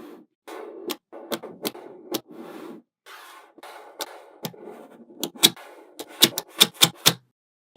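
Small neodymium magnet balls clicking as they snap together, with stretches of scraping rattle as they are rolled and pushed into place. A quick run of clicks comes near the end.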